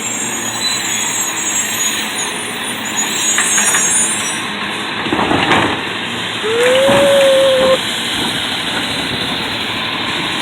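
Garbage truck working in the rain: a steady hiss, a couple of clanks about five seconds in, then a whining tone that rises and holds for over a second.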